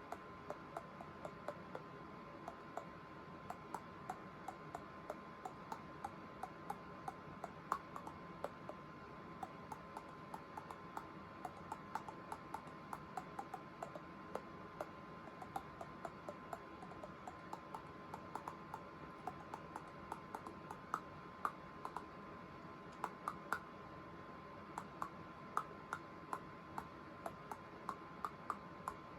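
Teeth clicking together in quick rhythmic runs, played as the tune of a song, with some clicks struck harder than the rest. A faint steady tone runs underneath.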